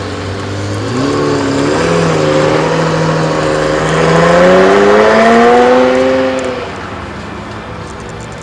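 A tuned sports car's engine accelerating hard, its pitch stepping up about a second in and then climbing steadily, loudest around four to six seconds in, then falling away quickly as the car moves off.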